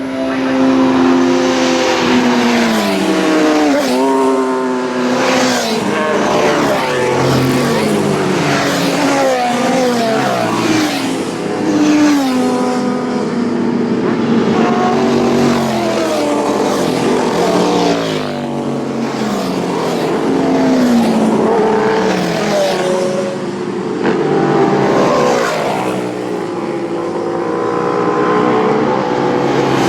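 Road-racing motorcycles at full throttle, one after another, their engines revving hard. The pitch climbs and then steps down again and again as they shift gear and pass by.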